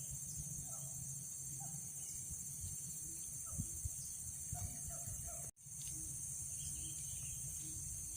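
Steady high-pitched insect chorus, with a few faint small calls, breaking off for an instant a little past halfway.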